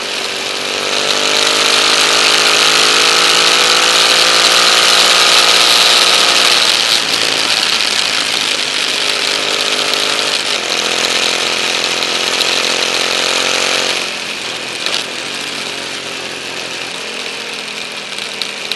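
KTM 950 Adventure's 942 cc V-twin engine under way on the road, heard through the mounted camera with heavy wind rush. The engine note climbs steadily for the first several seconds and drops around seven seconds in. About fourteen seconds in, everything gets quieter.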